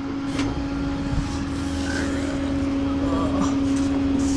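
Tow truck's engine running steadily, with a constant hum over a low rumble.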